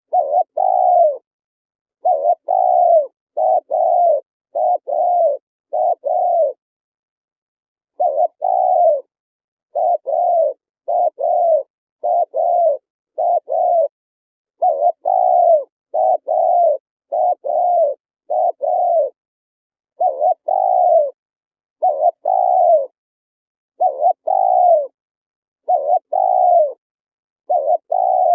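Spotted dove cooing: a long run of low coos, each note dipping in pitch, in clusters of two or three with short gaps and a longer pause about six seconds in, over a silent background.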